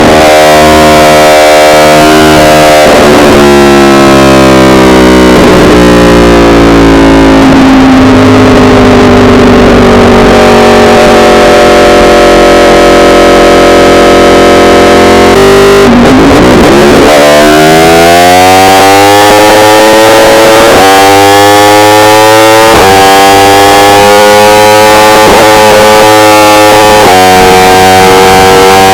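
Yamaha R1 inline-four engine on the road, heavily clipped and distorted in the recording. The revs fall steadily for several seconds, then climb in a run of rising pulls, each dropping back as the bike shifts up through the gears.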